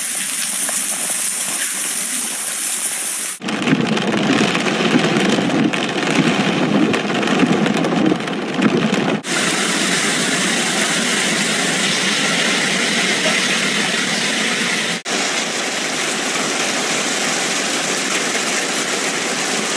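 Heavy hail and rain coming down in a loud, steady hiss, heard across several short clips that cut abruptly about three, nine and fifteen seconds in.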